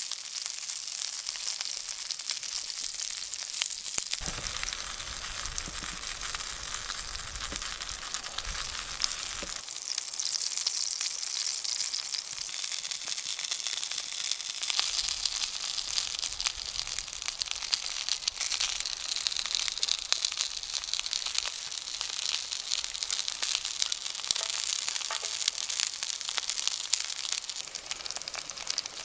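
Sausages sizzling in a frying pan over a wood fire: a steady, crackly hiss.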